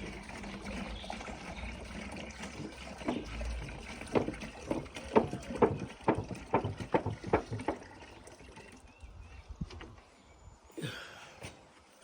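Fish-fertilizer solution being poured onto garden plants, trickling and splashing. A quick series of sharp knocks comes in the middle.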